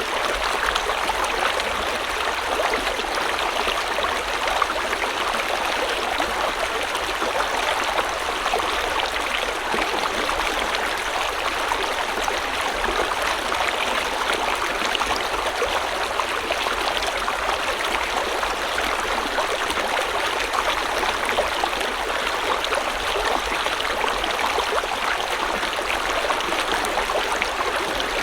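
River water flowing over stones, a steady babbling and rushing with fine bubbling detail, unchanging throughout.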